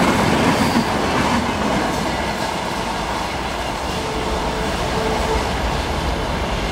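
LHB passenger coaches of an express train running past on the rails, wheels on the track. The sound eases off about a second and a half in as the rear of the train draws away.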